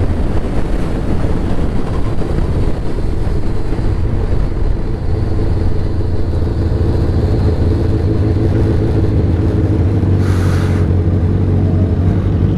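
Motorcycle engine running at steady revs while riding, with a short hiss about ten seconds in.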